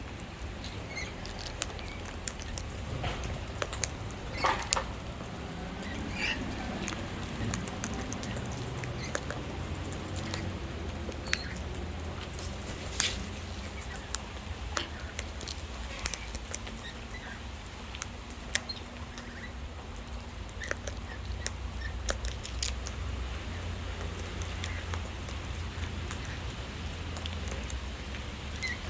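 Wild parrots feeding on seed: scattered sharp taps and clicks of beaks pecking and cracking seed, with a few faint chirps, over a steady low rumble.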